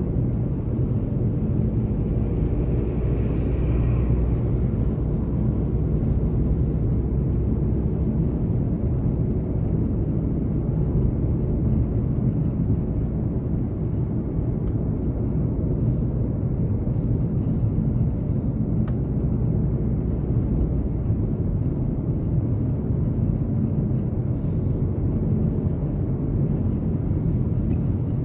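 A car driving at a steady pace: a constant low rumble of engine and tyres.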